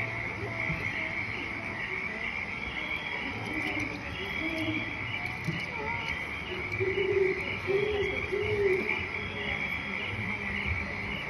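Steady chorus of cricket chirping, a high continuous chirring, with a few short low hoot-like calls around the middle and near the end.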